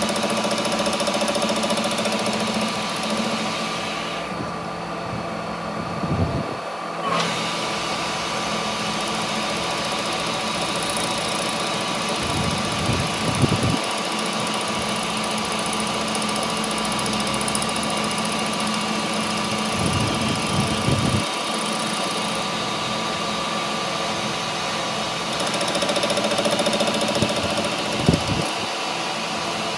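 A workshop machine's motor running steadily with a constant hum, broken by a few brief low thumps.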